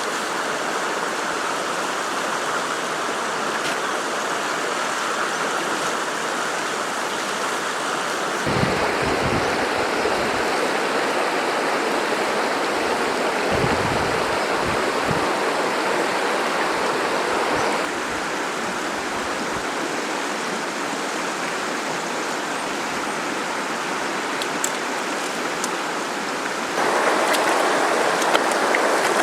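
River water rushing steadily. Its loudness and tone change abruptly three times, and a few low rumbles come through in the first half.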